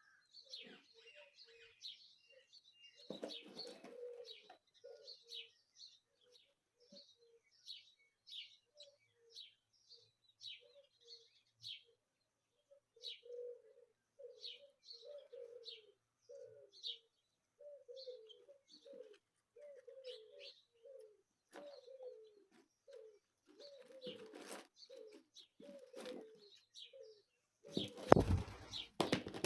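Birds at a nest: rapid high chirps, typical of nestlings begging to be fed, over short low calls that repeat about twice a second. A loud burst of wing-flapping comes near the end.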